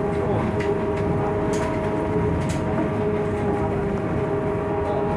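Scania trolleybus running at a steady pace, heard from inside: a steady two-note electric whine over a dense rumble of the ride, with a few sharp clicks or rattles.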